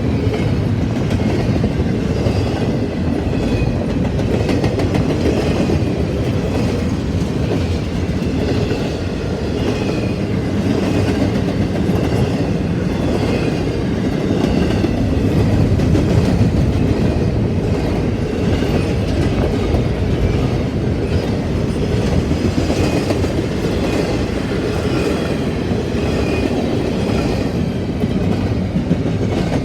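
Freight cars of a Canadian Pacific train rolling steadily past, wheels clicking over the rail joints under a continuous rumble, with faint, short high squeals from the wheels.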